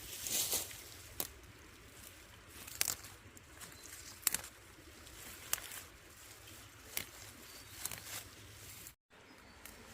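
Rustling of plants broken by irregular sharp crackles, about one every second or two, from dry leaves and stalks being handled or trodden on during harvesting.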